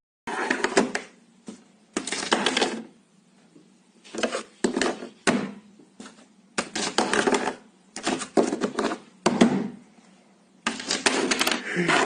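Repeated short bursts of clicking, rattling clatter, like small hard objects being knocked or shaken, about ten bursts with brief pauses between them.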